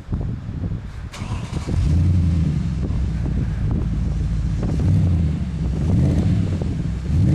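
Audi A4/S4 Cabriolet engine running through a stainless-steel duplex sport exhaust, with a deep, steady rumble at idle. It gets louder about two seconds in and rises in pitch in a short rev near the end.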